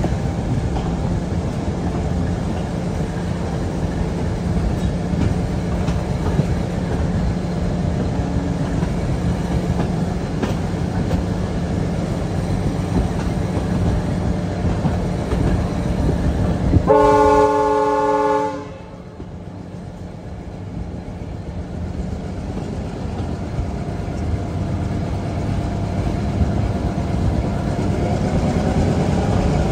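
Passenger carriage running on the rails with a steady rumble of wheels on track, heard from an open doorway. About 17 seconds in, the diesel locomotive's horn sounds once, a chord of several notes lasting about a second and a half. After the horn the rumble drops away sharply, then slowly builds again.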